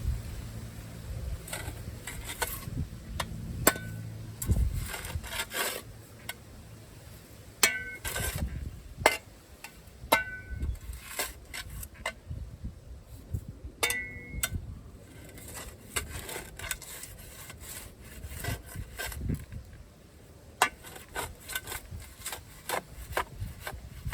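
Irregular scraping and rubbing with sharp knocks, like hand work with hard materials, going on throughout with short pauses.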